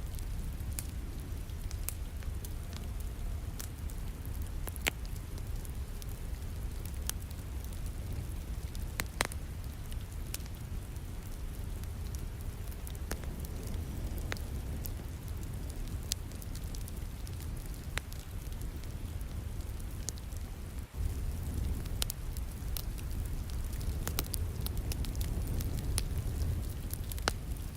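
Wood fire crackling in a fireplace, with scattered sharp pops and snaps, over a steady hiss of falling rain. The sound dips briefly about two-thirds of the way through.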